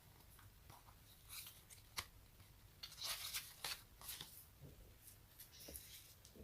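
Quiet, close-up sticky crackling and clicking, like an adhesive surface being touched and pulled away, with a sharp click about two seconds in and a brief run of crackles around the middle.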